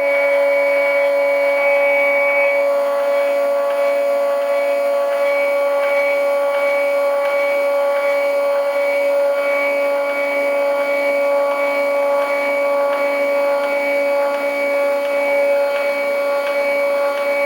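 Stepper motors of a CNC hot-wire foam cutter whining steadily with several fixed tones as they turn threaded rods during a cut.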